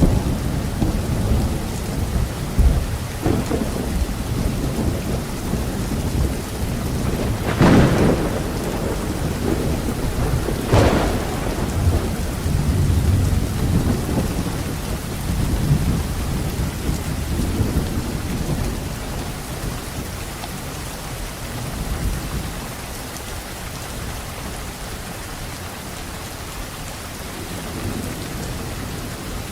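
Thunderstorm: steady rain with rolling thunder. Two sharp cracks of thunder come about eight and eleven seconds in, and the rumble dies down over the second half while the rain keeps falling.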